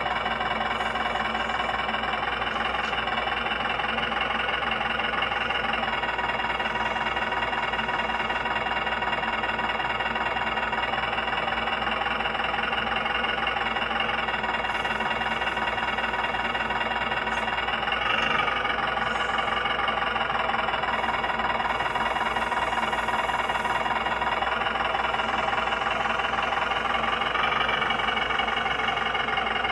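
Steady engine-like running from 1/14-scale model construction vehicles, briefly a little louder about 18 seconds in.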